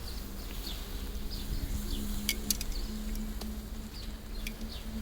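Birds chirping in short high calls over a steady low hum, with a few sharp ticks about halfway through.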